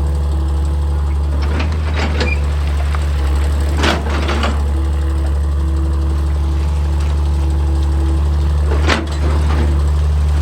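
Excavator's diesel engine running steadily, with a few separate knocks or scrapes of rock and steel about two seconds in, around four seconds, and near the end.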